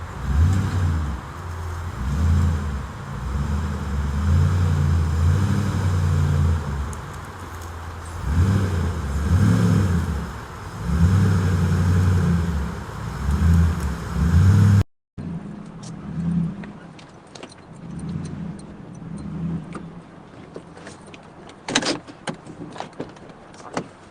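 Toyota Tundra pickup truck engine running as the truck is driven and manoeuvred into position, the rumble rising and falling with the throttle. After a sudden cut partway through, quieter scattered clicks and crackles, with a couple of sharper knocks near the end.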